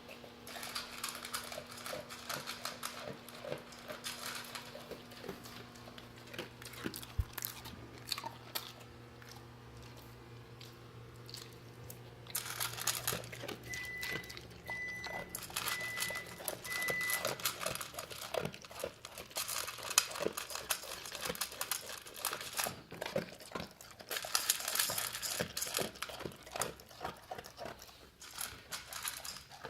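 A pet crunching and chewing its dinner, with many irregular crunches and clicks that get busier about halfway through. Four short beeps sound once in the middle.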